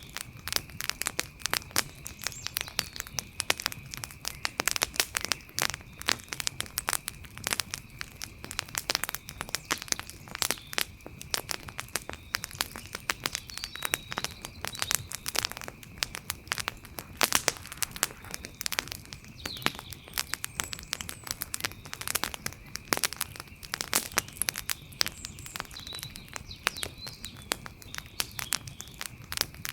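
Wood fire crackling, with a dense, irregular run of sharp pops and snaps throughout. A steady high thin tone sounds underneath, with a few faint chirps.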